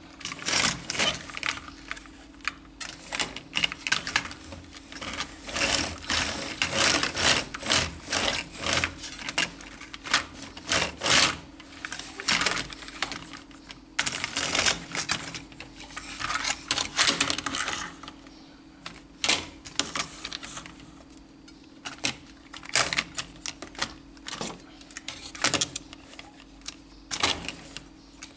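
Plastic toy cars being handled on a hard surface: dense, irregular clicking and rattling in clusters with short quieter gaps, over a steady low hum.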